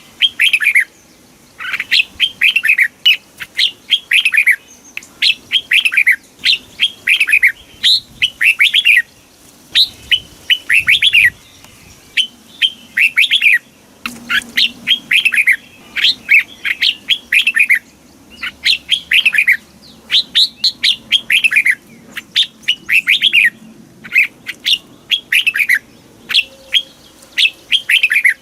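Red-whiskered bulbul singing: quick phrases of falling notes, each about a second long, repeated with short pauses.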